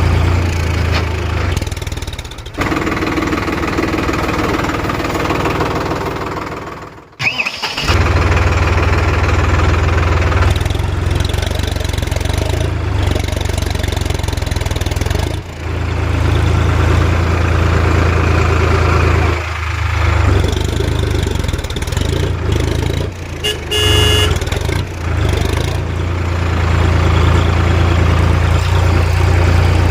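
Tractor engine sound running steadily, broken by several abrupt cuts, with a short beep-like tone about two-thirds of the way through.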